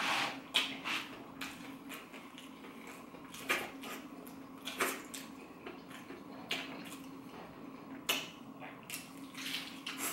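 Close-miked chewing of a deep-fried mac and cheese stick with a Flamin' Hot Cheeto crumb crust, with short irregular crunches every second or two.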